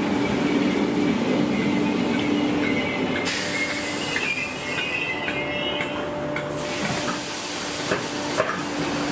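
Merseyrail electric multiple unit running through the station, with a steady motor whine, faint wheel squeal, and a spell of hiss about halfway through.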